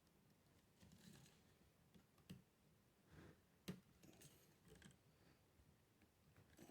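Near silence, with a few faint clicks and soft handling noises, the sharpest about two and a half and three and a half seconds in.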